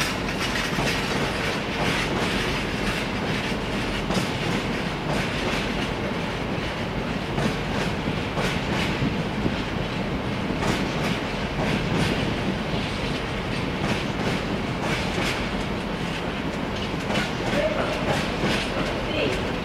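Bogie fuel tank wagons of a long freight train rolling slowly past: a steady rumble of wheels on rail, with repeated clicks as the wheels cross rail joints.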